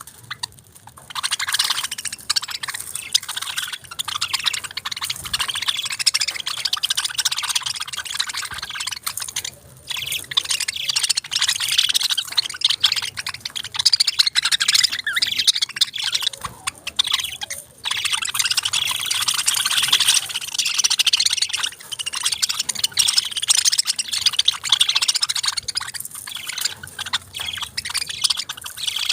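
A group of budgerigars chattering and chirping in a dense, continuous stream of short, rapid calls, with a few brief pauses.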